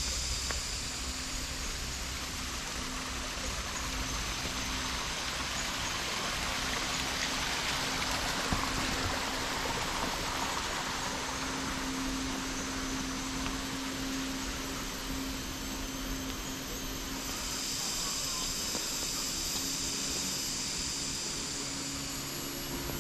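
Steady insect drone in tropical vegetation, with high, even bands of sound that fade and return about three-quarters of the way through, over a broad rushing hiss.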